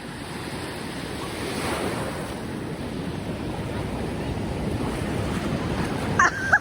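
Ocean surf rushing up the beach as a large wave comes in, with wind buffeting the microphone. Near the end a person gives a high-pitched shriek as the wave reaches them.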